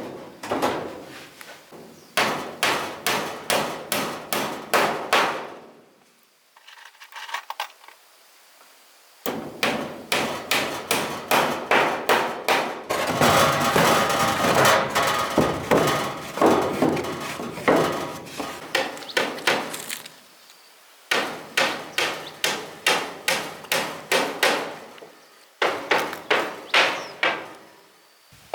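Hammer blows on wood, in runs of quick even strokes about two or three a second, with short pauses between the runs.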